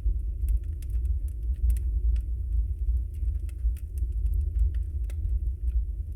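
Wood fire burning, crackling with frequent irregular sharp pops over a steady low rumble of the flames; one stronger pop about five seconds in.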